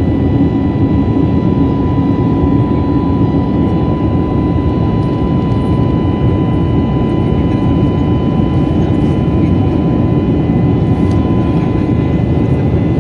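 Airbus A321neo's jet engines running, heard inside the passenger cabin: a steady, loud rush of engine and airflow noise with a constant high whine running through it.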